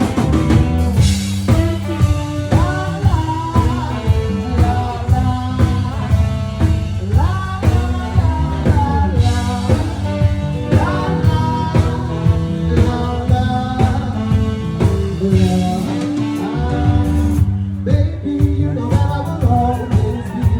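Blues-rock band playing with drum kit, bass and electric guitar over a steady beat, with a lead line bending in pitch above it. The music comes back in at full level right at the start after a brief dip.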